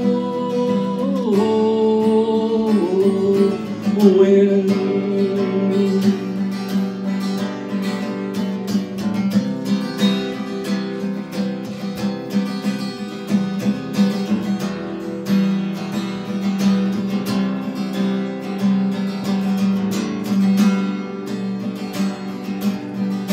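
Acoustic guitar strummed steadily. A man's singing voice holds long notes over it for the first few seconds, then the guitar plays on alone as an instrumental break.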